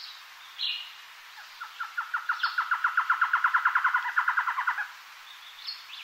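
A bird singing a fast, even trill of about nine short notes a second for some three seconds, with a few brief high chirps before and after. A steady hiss runs underneath.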